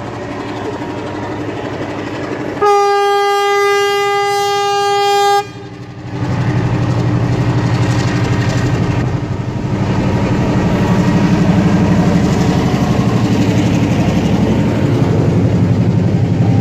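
Diesel train running across a bridge, its horn giving one long single-note blast of nearly three seconds a few seconds in. After the horn stops, the train's rumble grows louder and stays loud as it passes.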